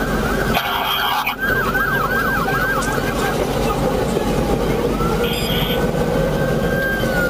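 Police car siren on yelp, a fast rising-and-falling sweep about four times a second, cut across by a short burst of noise about a second in. After a pause it switches to a slow wail that rises, holds, and begins to fall near the end, over steady background noise.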